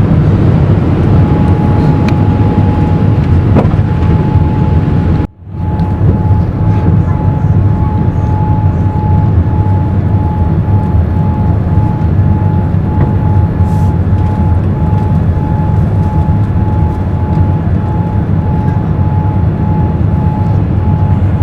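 Steady roar of a Boeing 787's jet engines and airflow heard inside the economy cabin during the climb after takeoff, carrying a steady thin whine. The sound cuts out for a moment about five seconds in, then resumes.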